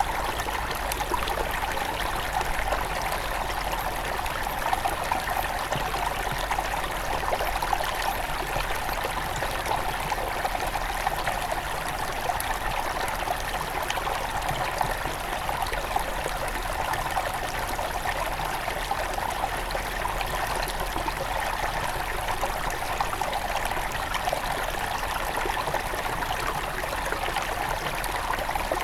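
Shallow headwater stream running and trickling over stones: a steady babble of flowing water with many small splashes.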